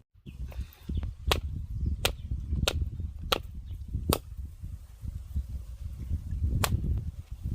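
A run of sharp chopping strokes: five at a steady pace about two-thirds of a second apart, then one more a couple of seconds later, over a low rumble.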